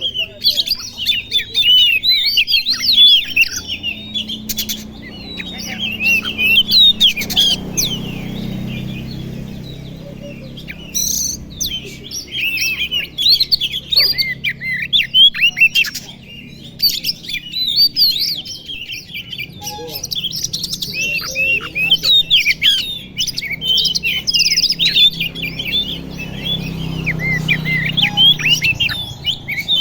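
Oriental magpie-robin (kacer) singing a fast, varied song of rapid chirps and whistles, with a couple of brief pauses. A low steady hum runs underneath for stretches.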